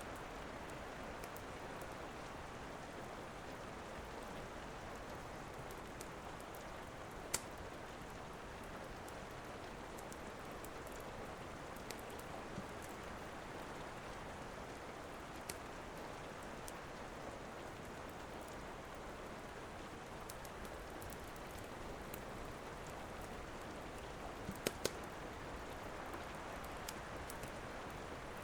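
Steady rain with a few sharp crackles and pops from a wood fire, several of them close together near the end.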